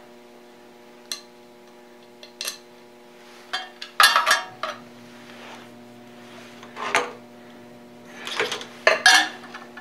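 Metal clinks and knocks of a drum switch and its hardware being handled and fitted to a surface grinder: a handful of sharp knocks, the loudest about four seconds in and another cluster near the end, over a steady hum.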